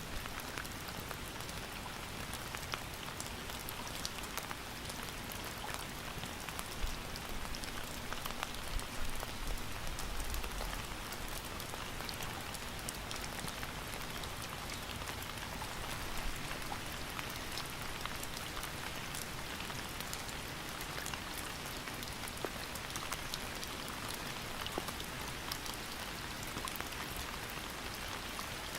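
Steady rain falling, with many separate drops ticking on a surface, and a brief low rumble about ten seconds in.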